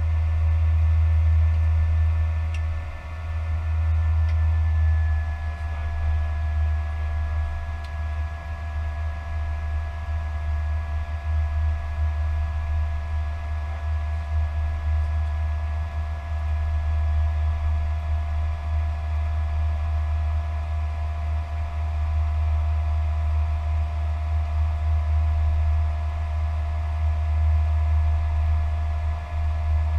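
Airbus A320 jet engines and airflow heard from inside the cockpit: a steady deep rumble with several whining tones above it, which shift slightly in pitch about four to five seconds in and then hold steady.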